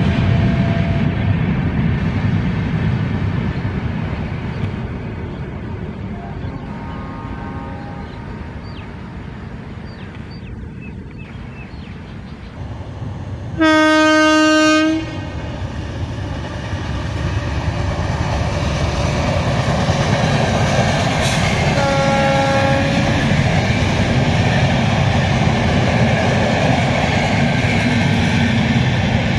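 Express train with LHB coaches running past, its rail rumble fading away over the first dozen seconds. About midway a WAP-7 electric locomotive gives one long horn blast of about a second and a half, the loudest sound, with fainter, shorter horn calls a few seconds before and after. Then a second LHB express rolls past at speed, its rumble and wheel clickety-clack building and holding steady.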